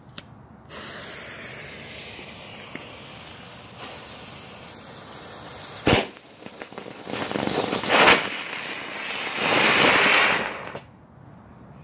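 Small consumer firework fountain (Sky Eagle 'Kung Fu Panda') hissing steadily as it sprays sparks, with one sharp bang about six seconds in. The hiss then swells in louder surges before cutting off suddenly near the end.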